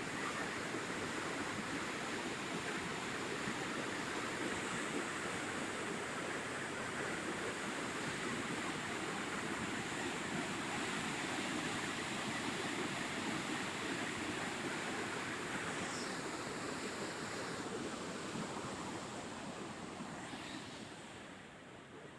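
Swollen river in flood pouring over a waterfall: a steady, dense rush of water that fades over the last few seconds.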